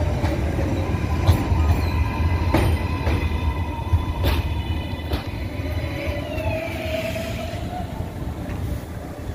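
R188 subway train on the 7 line pulling into the station and slowing to a stop: steady wheel rumble with sharp clicks over rail joints, thin wheel-squeal tones, and a gliding whine as it brakes. It grows quieter near the end.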